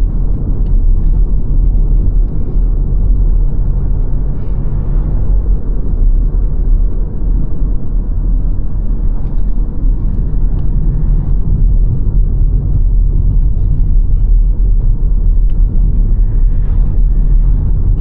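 A car driving along at a steady pace: a constant low rumble of the engine and tyres on the road.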